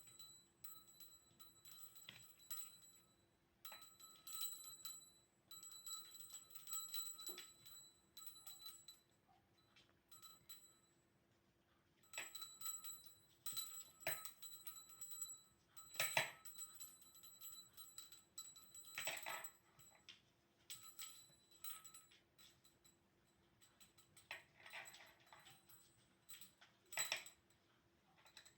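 Small bell jingling in short, irregular bursts, with light clicks and rattles mixed in. The loudest shakes come about 16 and 19 seconds in.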